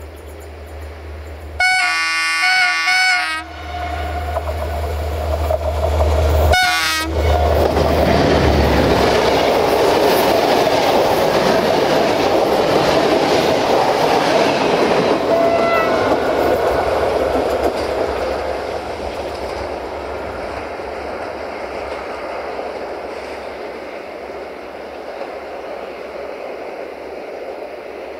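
Diesel-electric locomotive hauling a passenger train gives a horn blast about two seconds in and a shorter one a few seconds later, over the low rumble of its engine. Then the coaches pass close by with wheels clattering over the rail joints, and the noise slowly fades as the train draws away.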